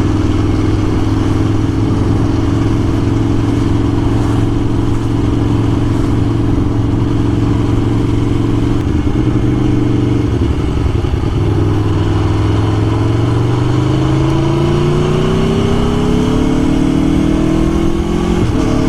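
Aprilia Tuono 1100's V4 engine under way, running steadily at first. From about twelve seconds in it pulls up in pitch as the bike accelerates, then drops back near the end with a gear change.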